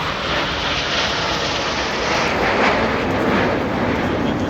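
Red Arrows' BAE Hawk jets flying past in formation: a loud roar of jet noise that swells to its loudest a little past halfway, then eases slightly.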